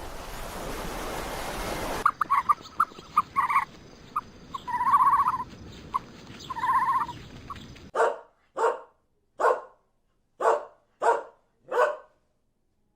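Dog sounds: from about two seconds in, short high yips and a couple of drawn-out whines, then six separate barks, one roughly every second, from about eight seconds in. The first two seconds are a steady rushing noise.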